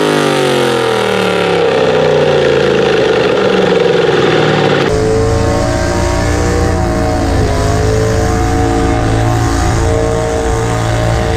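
Modified garden tractor pulling engine running hard under load, its pitch falling steadily as the revs drop. About five seconds in, the sound changes abruptly to a steadier, lower engine note with a heavy rumble underneath.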